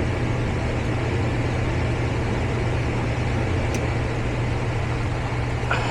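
Gas furnace running: a steady motor hum with the rush of air from its fan.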